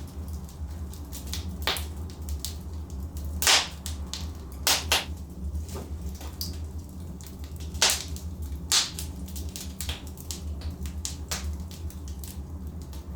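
Burning logs crackling in a fireplace: irregular sharp pops and snaps over a steady low rumble, with the loudest pops a little over three seconds in and again near eight seconds.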